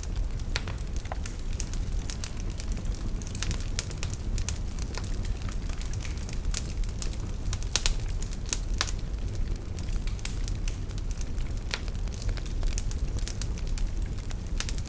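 Wood fire in a fireplace burning with a steady low rumble of flame and frequent irregular sharp crackles and pops.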